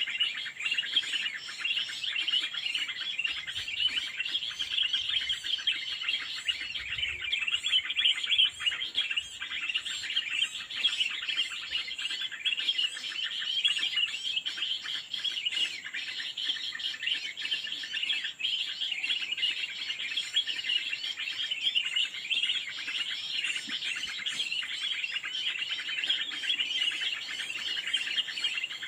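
Small birds chirping densely and without a break, many quick high notes overlapping.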